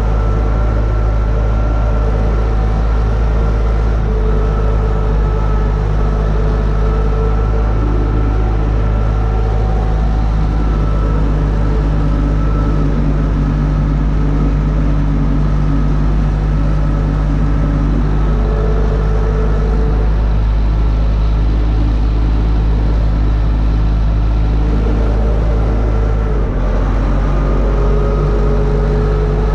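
UTB Universal 650 tractor's diesel engine running steadily under load while pulling a disc harrow. The low engine note shifts slightly near the end.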